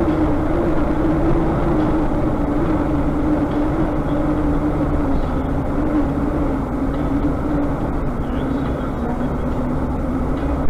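Vehicle engine and road noise, as from a truck dash cam: a steady drone with an engine tone whose pitch sags slowly.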